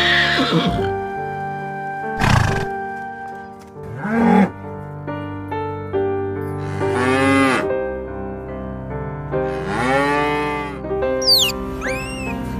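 Cattle mooing twice, long calls that rise and then fall in pitch, over steady background music. A horse's whinny trails off at the very start, two brief louder sounds follow in the first few seconds, and near the end an otter gives high, quickly falling chirps.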